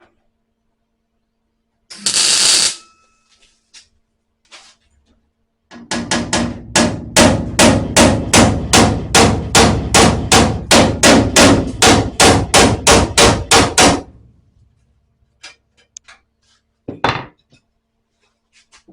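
Hammer striking the sheet-steel panel of a car's spare wheel well, a steady run of sharp, ringing blows at about three a second for some eight seconds, tapping the seam between old and new metal into line. A short, harsh burst comes near two seconds in, and one more knock near the end.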